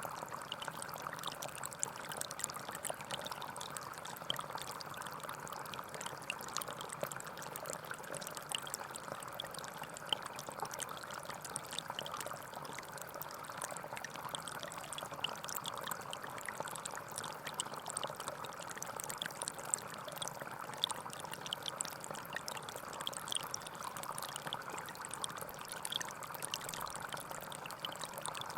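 Small stream of water running and trickling over rocks, a steady babble with many small splashes.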